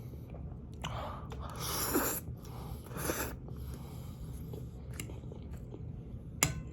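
A person eating spicy ramen noodles with sausage: chewing and biting close to the microphone, with three louder noisy bursts about one, two and three seconds in and a sharp click near the end.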